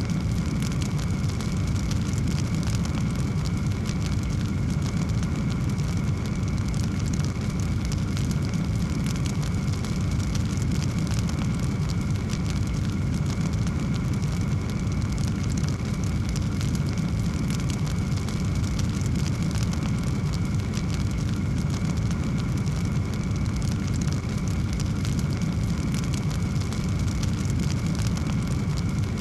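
Wood fire in a fireplace crackling steadily over a low, continuous rumble of flames.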